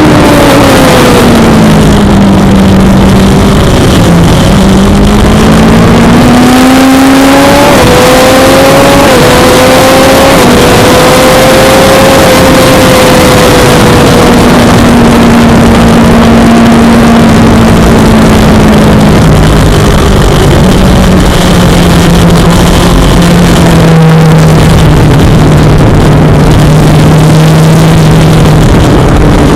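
Suzuki GSX-R600's inline-four engine at racing speed: its pitch falls for a few seconds, then climbs in steps through several quick upshifts and holds high before easing lower near the end. Heavy wind rush runs under it throughout.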